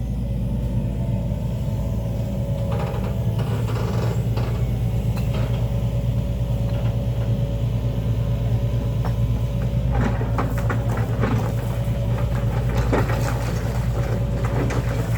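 An engine running steadily at a constant idle-like speed, a low even drone, with scattered light clicks and knocks over it.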